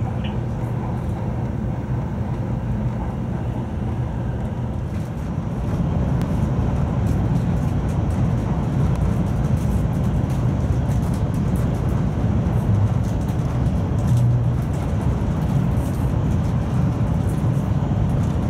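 Cabin noise of a Taiwan High Speed Rail 700T train running: a steady low rumble that grows louder about five or six seconds in.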